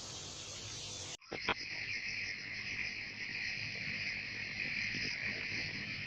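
Steady high-pitched insect chirring, which starts abruptly about a second in after a plain hiss, with a couple of short clicks just after it starts.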